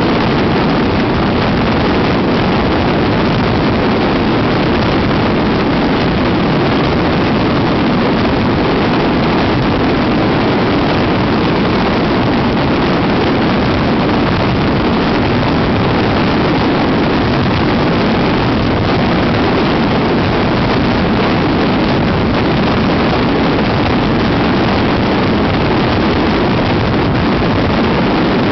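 Daytime fireworks barrage: aerial firecrackers and shells exploding so densely that the bangs merge into one loud, continuous roar with no pauses.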